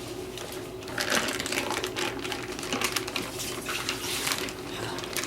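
Thick whipped soap being worked by hand: wet, sticky squelching with rapid crackles, starting about a second in.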